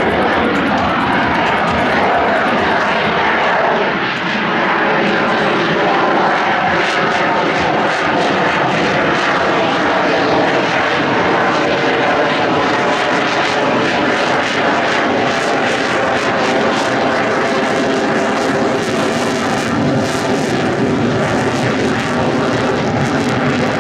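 Airplane engine running loud and steady as an aircraft flies, with several held tones over a dense rushing noise.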